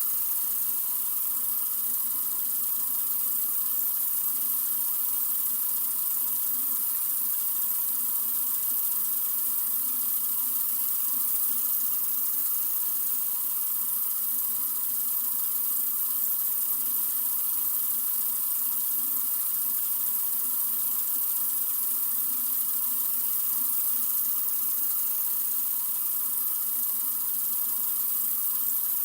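Water running steadily from a sink faucet: an even, unbroken hiss.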